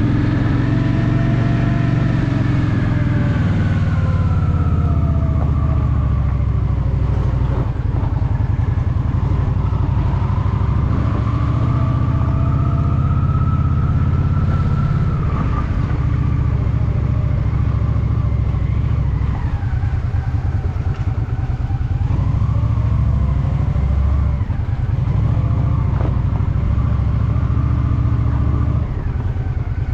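Honda Shadow VT750's V-twin engine running under way, its pitch rising as it pulls and falling as the throttle eases, several times over.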